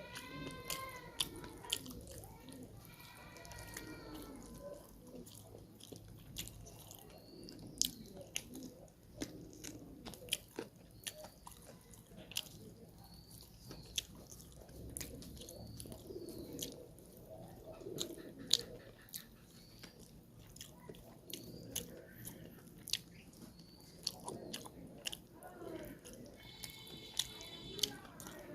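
Close-miked eating of chicken curry and rice: steady chewing and biting with wet mouth smacks and sharp crunching clicks scattered throughout.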